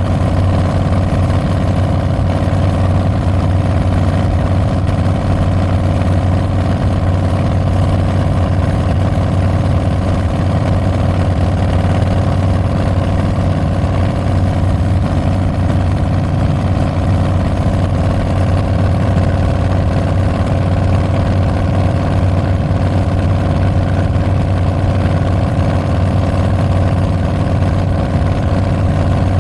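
2022 Harley-Davidson Street Bob's Milwaukee-Eight 114 V-twin running through Tabs Performance slip-on mufflers with Zombie Baffles, a steady, deep exhaust note with no revving or shifts.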